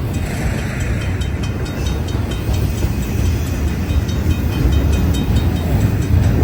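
Intermodal freight cars rolling past at a level crossing: a loud, steady low rumble with faint repeated clicks of wheels over the rails.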